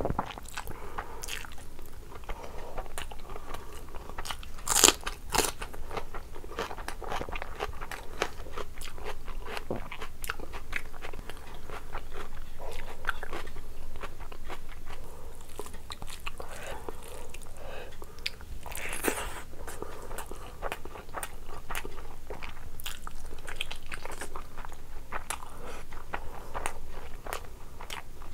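Close-miked eating: chewing and biting with wet mouth sounds and crisp crunches, and many small sharp clicks, the loudest about five seconds in.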